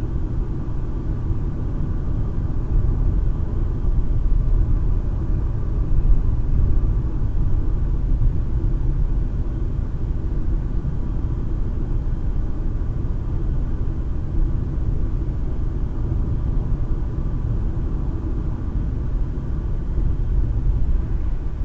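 Steady low rumble of a car driving, tyre and engine noise heard inside the cabin through a dash cam microphone.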